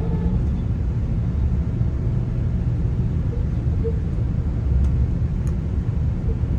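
Steady low rumble inside a GO Transit bilevel passenger coach, with a few faint brief tones above it.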